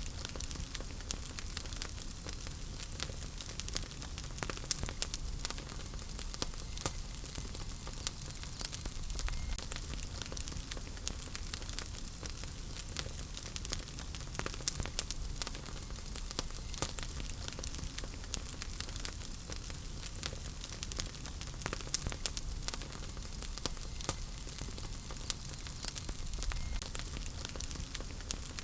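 Wood fire burning in a fireplace: a steady low rumble and hiss of flames with frequent irregular sharp crackles and pops from the burning logs.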